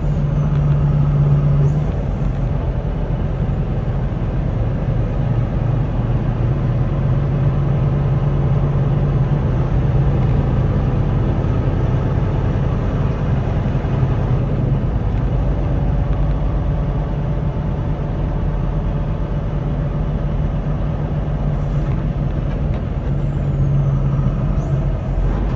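Semi truck running down the road: a steady low diesel-engine drone with road noise.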